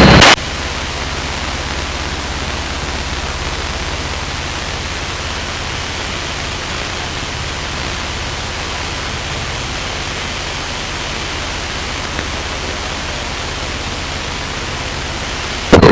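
Steady hiss of a light aircraft's headset intercom in flight, with the Luscombe's engine drone as a low, even hum underneath.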